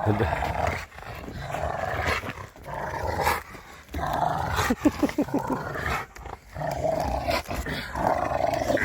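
Rottweiler growling in about seven short bursts with brief pauses between them, with a few quick high whines about halfway through.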